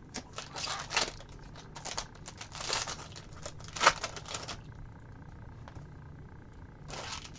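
Foil trading card pack wrappers crinkling and tearing as packs are ripped open, in a run of crackly rustles over the first few seconds and one short rustle near the end.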